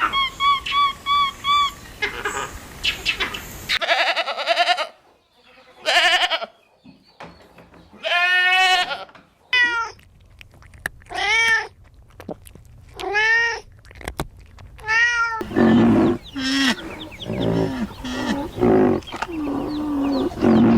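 A string of domestic animal calls. Quick high chirps come first. From about four seconds in there are repeated drawn-out, arching cries, each up to about a second long, and lower, rougher calls follow near the end.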